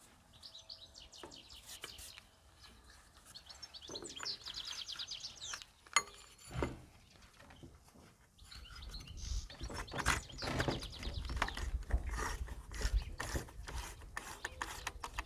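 Hands working a rubber CVT drive belt onto a Yamaha Jog scooter's variator and clutch pulleys: irregular rubbing, scraping and small metal clicks and knocks, busiest in the second half.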